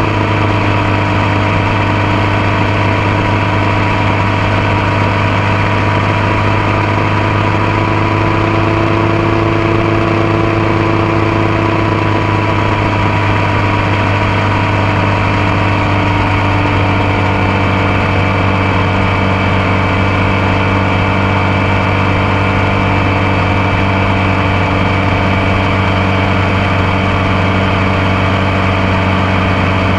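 Motorcycle engine running at steady revs, a loud, even low drone picked up close to the engine from the passenger foot peg.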